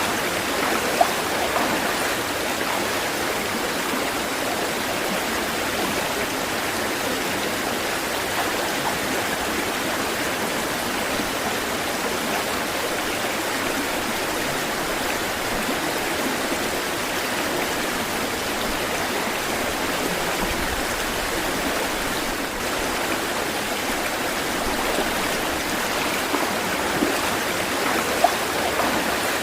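Stream water running steadily in an even rush, with a couple of brief louder splashes about a second in and near the end.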